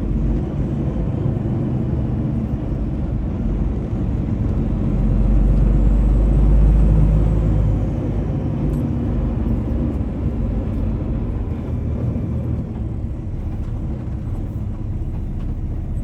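PACCAR MX-13 13-litre diesel of a loaded semi-truck heard from inside the cab, pulling under load. The engine rumble swells for about three seconds around five seconds in, then settles back.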